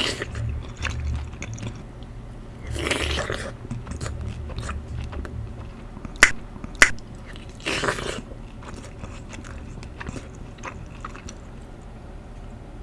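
Close-up chewing and biting of soup dumplings, with two sharp clicks about six seconds in and a few short noisy bursts around them.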